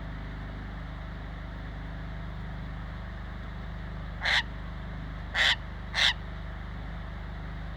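Three short calls from a wild bird coming to be hand-fed, about four seconds in and then two more close together a second later, over a steady low hum.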